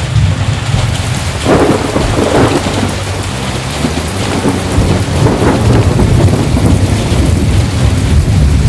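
Heavy rain with rolling thunder: a steady deep rumble under the rain, with a louder thunderclap surging about a second and a half in and further swells of thunder a few seconds later.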